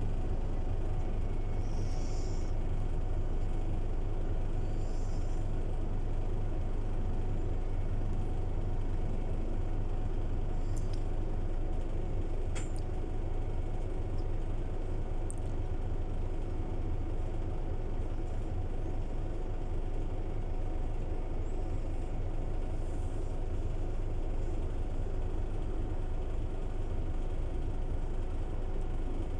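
Scania city bus running steadily, a low even engine hum, with two short pneumatic air hisses from the air brakes a few seconds in and a few faint clicks around the middle.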